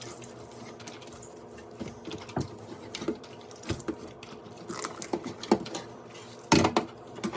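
Scrubbing and handling a dirty refrigerator part: irregular light taps, knocks and rubbing, with a louder cluster of knocks near the end and a faint steady hum underneath.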